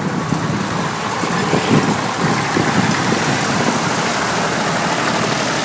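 Tractor engines idling.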